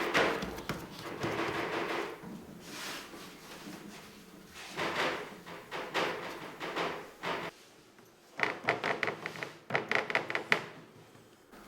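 A series of knocks and clatters, with a fast run of sharp hits in the last few seconds.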